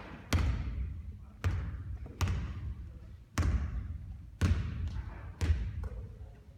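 A basketball thudding on a court, six heavy bounces at uneven intervals about a second apart, each followed by an echoing tail, with a lighter knock near the end.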